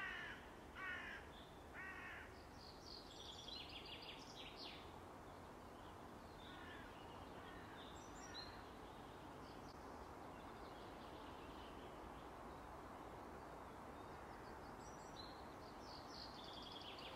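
A crow cawing three times about a second apart, then small birds chirping on and off over faint steady outdoor background noise.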